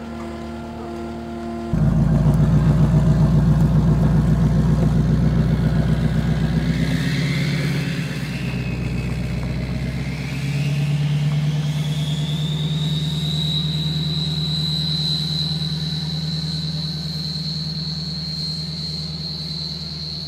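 Diesel pickup with a P-pump 24-valve Cummins engine pulling away under load, its engine note jumping sharply louder a couple of seconds in. A high whine rises in pitch and then holds steady as the truck keeps going.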